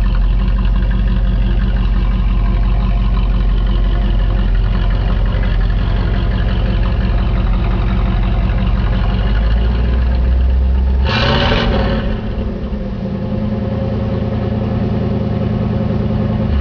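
1986 Camaro Z28's 305 V8 idling through Flowmaster mufflers, with one short blip of the throttle about two-thirds of the way through before it settles back to idle.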